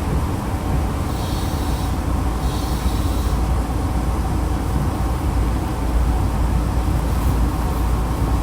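Electric commuter train (Nankai set 2036F) running on the rails, heard from inside the passenger car: a steady low rumble with two brief higher hissing sounds about a second and two and a half seconds in.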